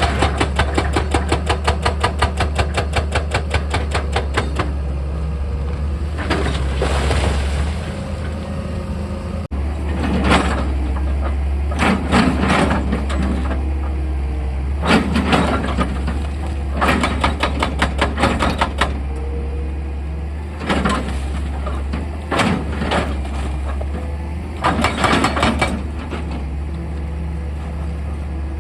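Excavator engine running with a steady low hum while its drilling attachment strikes rock in rapid strokes: a fast run of about seven blows a second for the first few seconds, then short bursts every couple of seconds.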